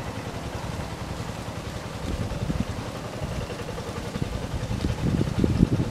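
Low rumble of a freight train moving away along the track, with irregular low thumps that grow stronger near the end.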